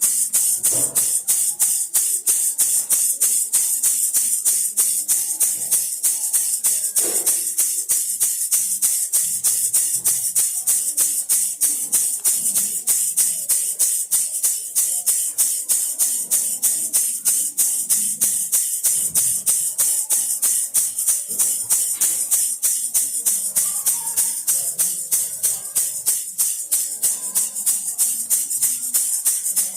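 Baby rattle shaken steadily in a fast, even rhythm, each shake a short bright rattle of the beads inside.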